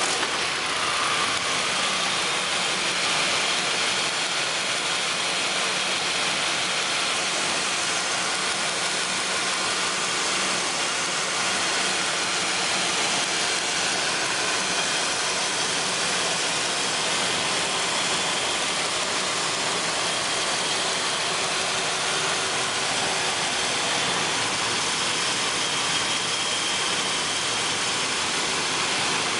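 Ford V6 engine idling steadily just after its cam sensor (camshaft synchronizer) was installed by hand without the special tool: the test of whether the sensor went in right.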